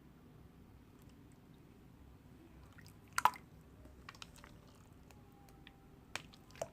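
Slime being squeezed and worked by hand, making one loud squelchy pop a little past three seconds in, scattered small clicks, and two more pops near the end.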